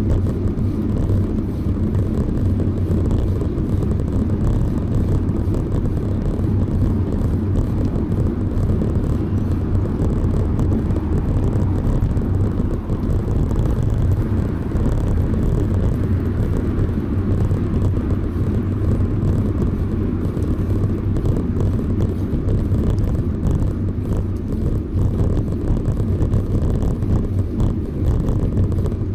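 Steady low rumble of riding a bicycle: road and wind noise on the ride camera's microphone, even throughout with no distinct events.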